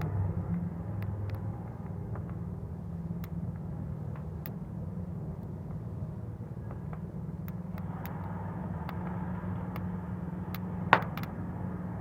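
Bonfire burning with a steady low rumble and scattered small crackles, and one sharper pop about eleven seconds in.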